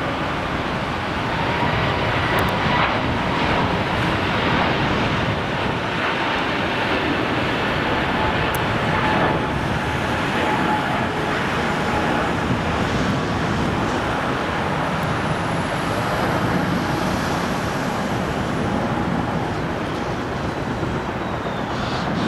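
Steady jet airliner engine noise, with a faint high turbine whine that rises and falls in the second half.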